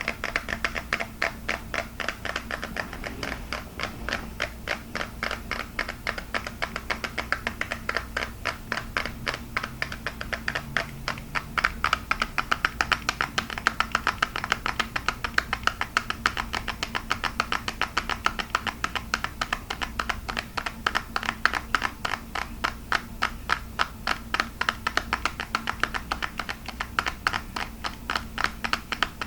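Fast, continuous fingertip tapping on hard plastic: a quick run of sharp taps, several a second, over a faint steady low hum.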